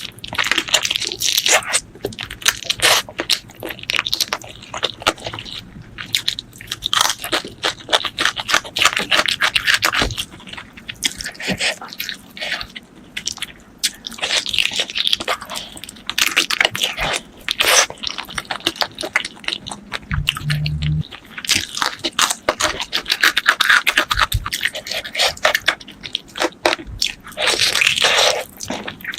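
Close-miked eating of spicy chicken feet: wet chewing, biting and crunching, with many sharp clicks packed close together.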